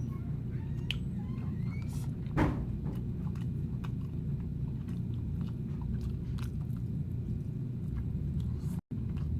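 A person chewing and eating food close to the microphone, with scattered small clicks and one louder sound about two and a half seconds in, over a steady low hum. The sound cuts out for an instant near the end.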